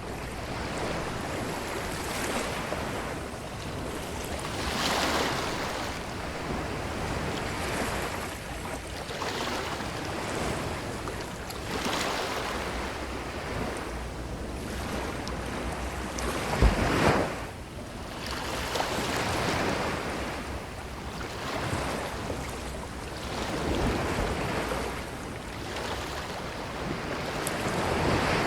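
Ocean surf washing onto a beach, swelling and falling back every few seconds. About two-thirds of the way in comes one brief, louder thump.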